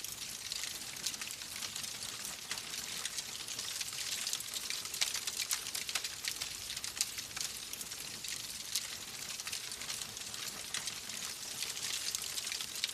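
Wood fire crackling steadily: a dense hiss full of many small sharp pops and snaps.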